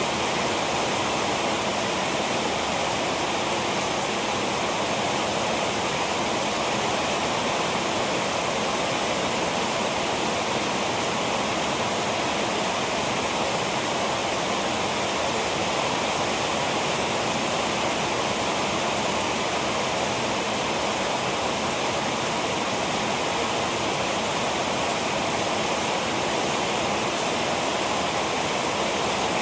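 Heavy rain falling steadily, a dense, even hiss of rain without letup.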